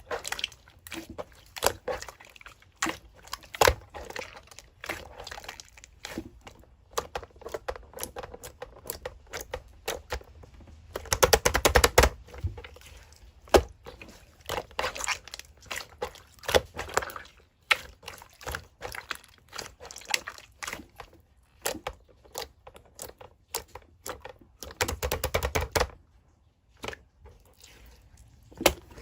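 Slime being squished and poked by hand: a dense run of small wet clicks and pops, with two louder stretches of squelching, about 11 seconds in and about 25 seconds in.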